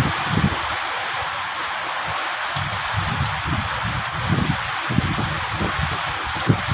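Steady rainfall: a dense, even hiss of rain with scattered sharper drop ticks and uneven low thuds underneath.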